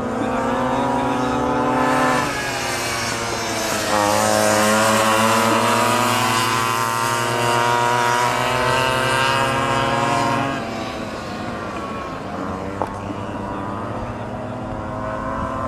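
Minibike engines running hard, revving up in pitch, dropping back about two seconds in, then climbing again before fading away about ten seconds in to a lower, steadier engine drone.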